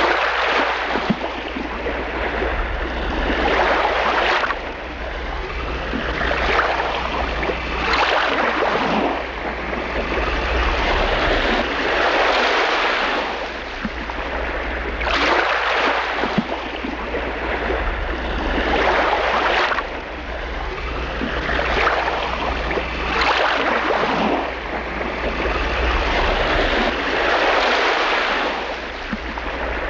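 Water washing in waves, a rushing hiss that swells and ebbs every three to four seconds, over a steady low rumble.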